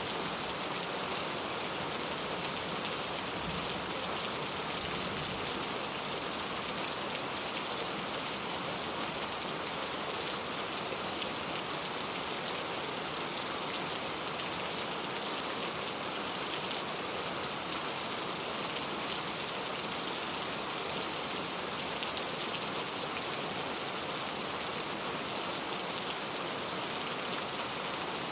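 Steady rain falling, an even hiss of drops with faint individual patters on a surface, unchanging throughout.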